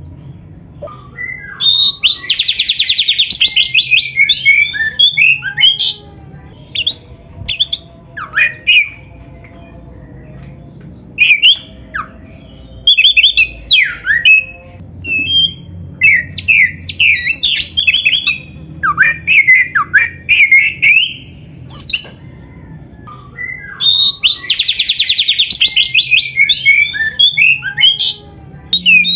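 Oriental magpie-robin (kacer) singing a loud, varied song: a fast rattling trill for a few seconds near the start and again near the end, with separate whistled, sweeping notes in between.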